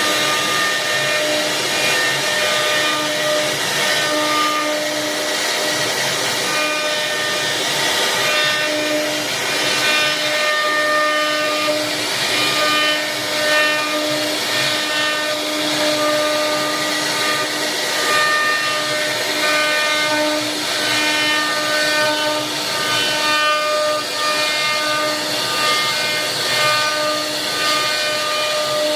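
CNC machine running: a steady hiss with a whining motor tone that starts and stops every second or so as the machine moves.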